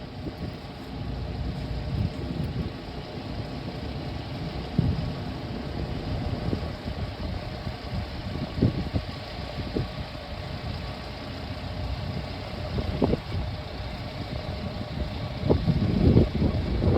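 An engine idling steadily, with scattered short knocks and clunks, several of them near the end.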